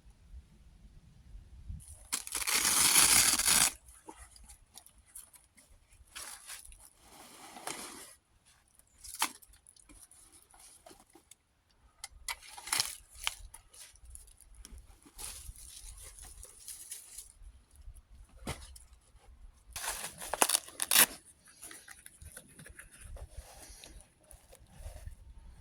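Tearing and crinkling handling noises: a loud tear lasting about two seconds shortly after the start, then scattered rustles and clicks, and another sharp burst of tearing about three quarters of the way through.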